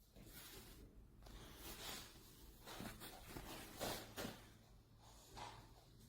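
Faint, soft rustling and handling noises in a small room, a few brief swishes scattered through, strongest around four seconds in.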